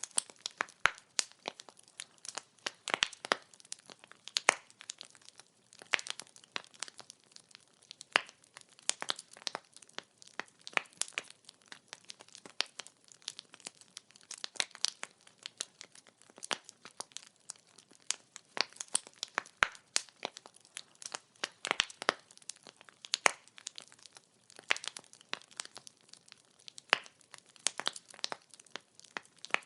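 Wood fire burning, with dense, irregular crackling and sharp pops of burning firewood.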